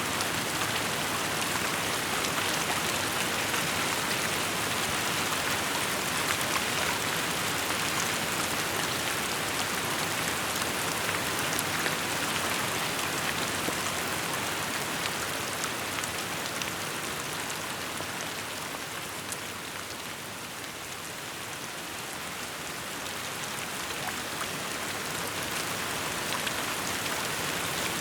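Steady rain falling, with many small drops pattering on surfaces; it eases a little past the middle and then picks up again.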